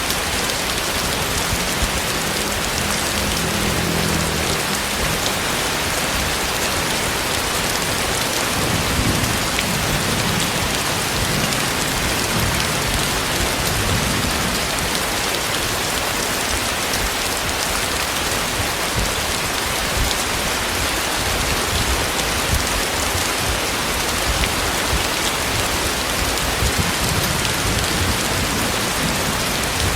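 Heavy tropical rain falling steadily, a dense, even hiss of rain on surfaces. Low rumbles sit underneath in the first few seconds and again around ten to fourteen seconds in.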